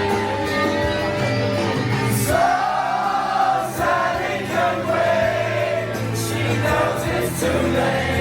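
Party music playing loudly while a crowd of people sings along together.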